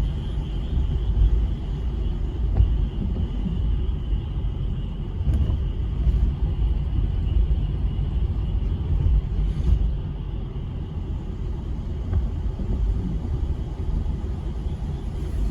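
A steady, uneven low rumble with a faint, continuous high frog chorus behind it.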